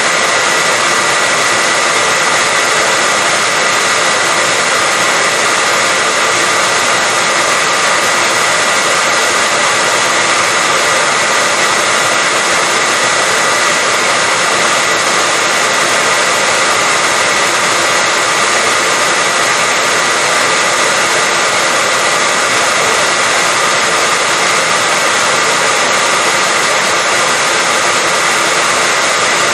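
Hair dryer running steadily at a constant speed: an even rush of blowing air with a steady high whine from the motor and fan.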